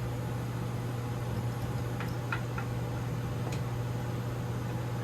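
A steady mechanical hum with a low drone and a few faint ticks.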